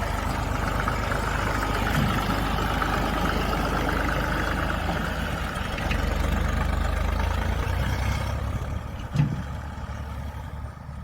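Massey Ferguson 35 tractor engine running steadily, a little quieter from about eight and a half seconds in, with a single thump about nine seconds in.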